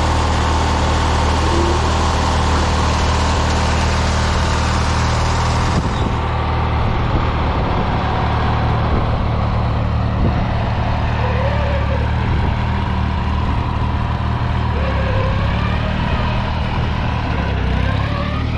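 Murray lawn tractor's small engine running steadily.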